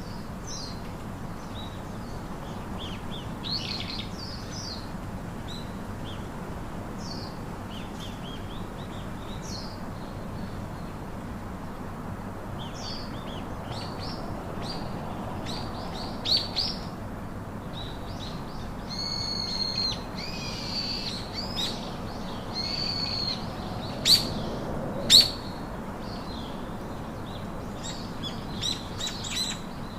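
Several wild birds chirping and calling over a steady background hiss, with short high calls scattered throughout. There is a longer, drawn-out call about two-thirds of the way through, and the loudest sounds are two sharp calls about a second apart soon after.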